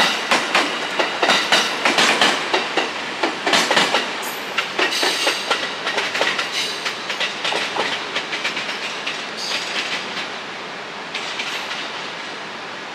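JR East 701 series electric commuter train rolling past, its wheels clicking over rail joints and points in quick runs. The clicks are dense at first, then thin out and fade as the train moves away.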